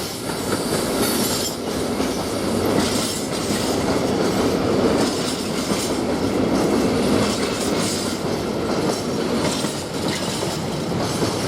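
Mostly empty freight wagons rolling steadily past on the main line, a continuous rumble and rattle of wheels on rail.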